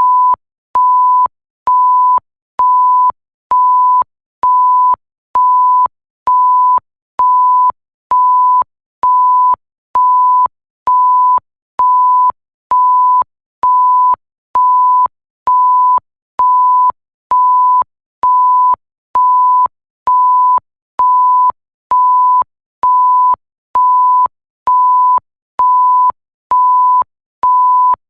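Electronic bleep sound effect: a single pure, steady high-pitched tone beeping on and off evenly about once a second, each beep a little over half a second long, with a faint click as each starts and stops.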